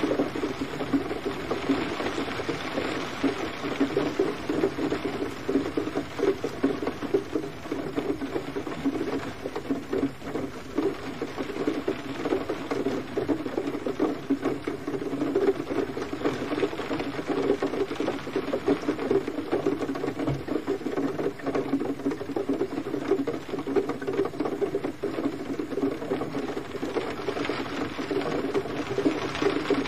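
Gentle rain falling steadily, a dense, even patter of drops on a surface with no thunder.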